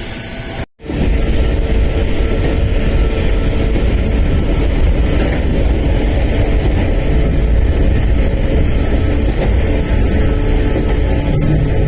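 Sangi Railway electric train running, heard from on board: a steady low rumble of wheels on rail with a faint steady motor tone. It starts after a brief break about a second in.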